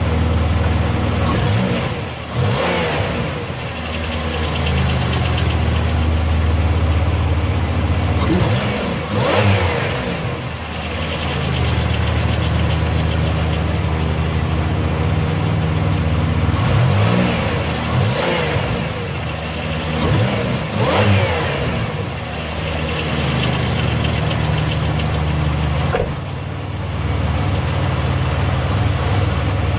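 Car engine idling and being revved briefly about five times, the pitch rising and falling with each blip. The owner suspects an exhaust leak at the downpipe but cannot tell from the sound.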